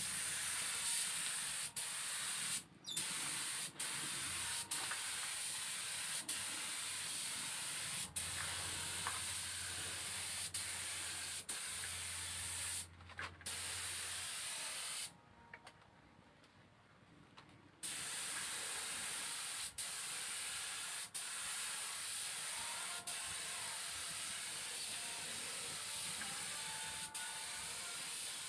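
Spray gun hissing steadily as it sprays a coat of thinned PU finish, cutting out briefly a few times as the trigger is released and stopping for a few seconds about halfway through. A low hum runs under it through the first half.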